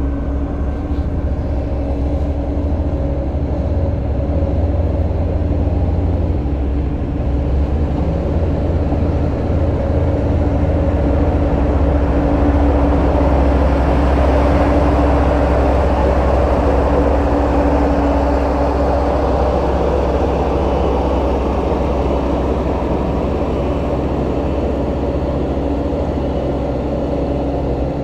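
Diesel engine of heavy earthmoving equipment running steadily under work, with a deep rumble and a held drone; it swells a little around the middle and then eases back.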